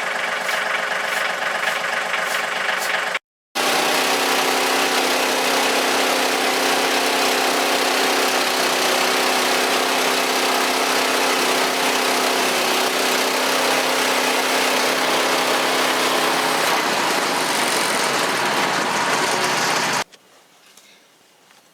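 Portable bandsaw sawmill's gasoline engine running steadily, with a brief break a few seconds in. It cuts off abruptly near the end.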